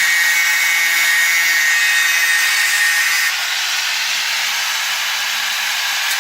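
Power tool cutting metal, running steadily under load with a high whine over a hissing cut. It eases slightly about three seconds in.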